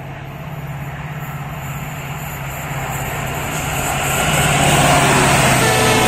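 Indian Railways diesel-hauled passenger train approaching at speed: a steady low engine hum under rising wheel-and-rail noise, growing louder and loudest from about four seconds in as the locomotive draws level.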